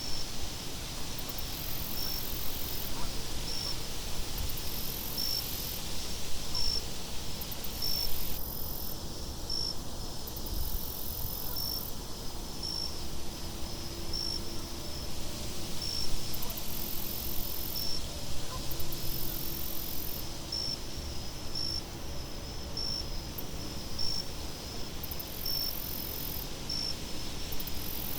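Crickets chirping steadily, with stronger chirps roughly once a second, over a steady low wind noise.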